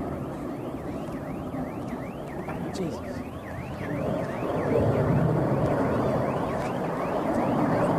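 Emergency siren yelping, a rapid rising-and-falling tone repeating two to three times a second, over a steady rumble of background noise.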